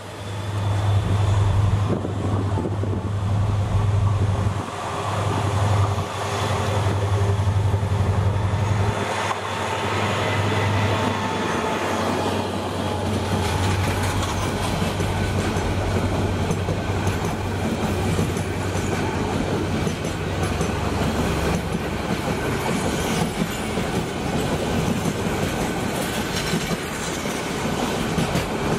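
Mainline diesel locomotive approaching and passing close by, its engine a loud low drone, followed by a long rake of passenger coaches rolling past with wheels clattering over the rail joints. About twelve seconds in, the engine drone fades and the even rolling clatter of the coaches takes over.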